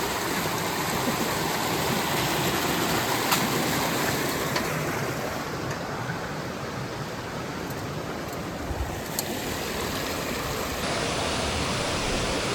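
Steady rush of flowing water from a creek cascading over rocks, with a few faint clicks.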